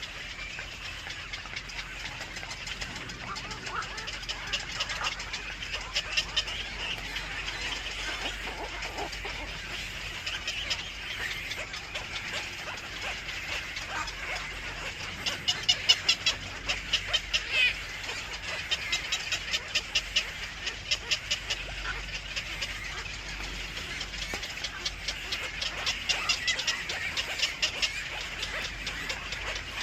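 Birds calling in rapid runs of short, repeated high notes, with louder bursts around the middle and again near the end.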